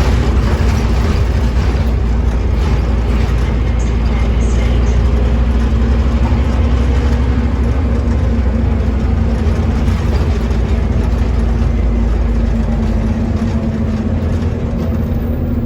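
Scania OmniCity double-decker bus's diesel engine running with a steady low drone, easing off a little near the end.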